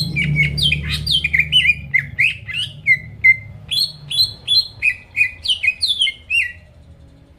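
Cucak ijo (green leafbird) singing in full voice: a fast run of short, sharp notes, each sliding down in pitch, several a second, which stops shortly before the end.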